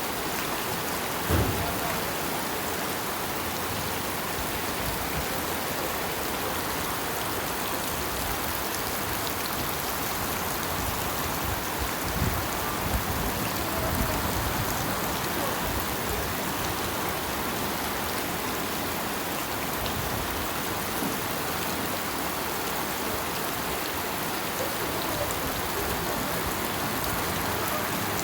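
Heavy rain pouring down in a steady, dense hiss, with a few brief low thumps.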